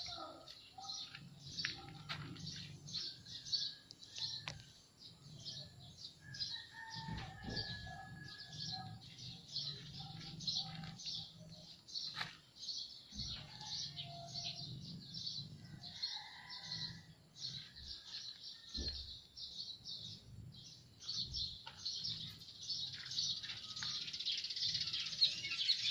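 Small birds chirping continuously, a fast run of short high chirps several a second that grows denser near the end.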